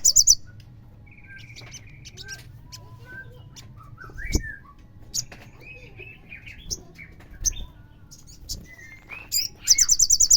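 Olive-backed sunbird calls: a rapid high trill at the start and again near the end, with scattered sharp chirps and short whistled notes in between.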